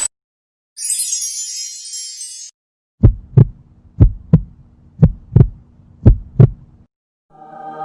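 Heartbeat sound effect: four double thumps, lub-dub, about one a second over a low steady hum. Before it, a short bright, high hiss or shimmer lasting under two seconds; music comes in near the end.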